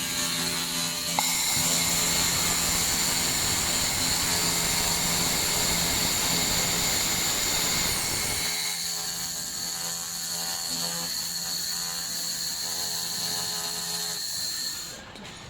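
Handheld laser welding machine running: a steady high-pitched whine over a hiss and a low hum. The lower hum and rumble drop away about halfway through, and the whine cuts off near the end.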